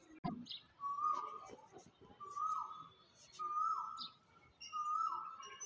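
A bird calling four times in an even series, each call a held whistled note that drops in pitch at the end, with fainter high chirps of other birds behind. There is a brief sharp click just after the start.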